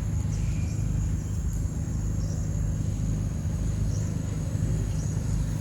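Steady low rumble with a continuous high-pitched insect drone over it.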